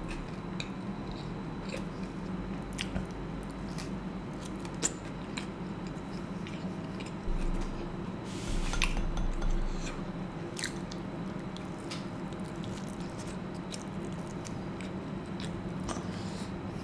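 Close-miked biting and chewing of a folded pizza slice: soft wet mouth sounds and small crunchy clicks from the crust, with a louder stretch about halfway through.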